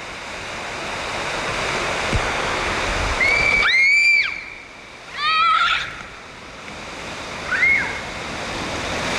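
Rushing, splashing water at a water park, swelling louder over the first few seconds, with children's high-pitched shouts and squeals over it about three times.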